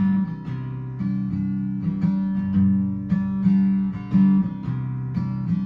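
Acoustic guitar strummed in a steady rhythm, chords changing every second or so: the instrumental intro of a song.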